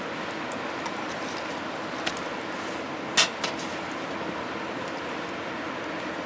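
Steady rain falling, an even hiss, with a few sharp taps or ticks over it, the loudest about three seconds in.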